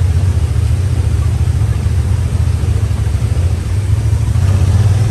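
Honda Pioneer 1000 side-by-side's parallel-twin engine running steadily, a loud low drone.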